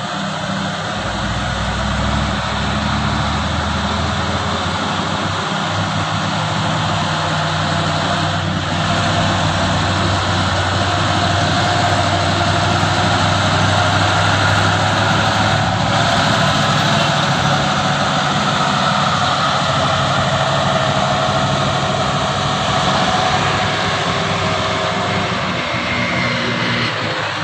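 Truck diesel engine running steadily under heavy load as the truck climbs a steep hill. A steady whine rides above the engine drone, which grows a little louder through the middle.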